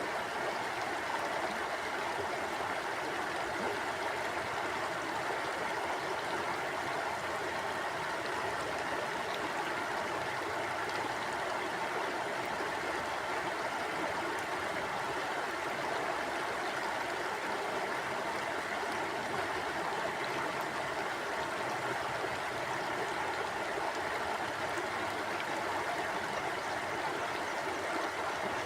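Mountain stream flowing steadily over rocks: a continuous rushing and burbling of water.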